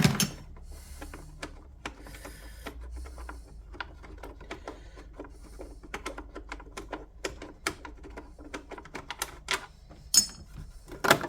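Socket ratchet clicking in quick runs as a bolt is worked loose, with a couple of sharper knocks of metal and plastic parts near the end.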